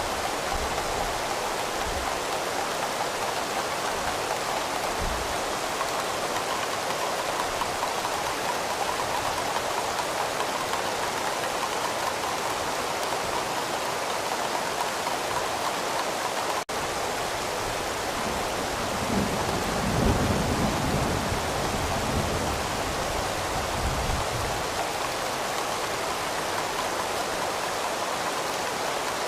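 Steady rain falling, with a low rumble of thunder swelling about two-thirds of the way through.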